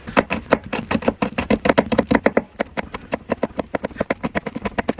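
Knife chopping rapidly on a cutting board, about eight or nine strokes a second, with a brief pause partway through.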